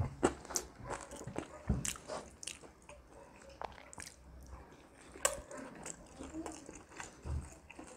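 Close-miked eating: wet chewing and lip smacking with scattered sharp mouth clicks at an uneven pace, from soft millet-flour momos and a chicken burger being chewed. The sharpest click comes about five seconds in.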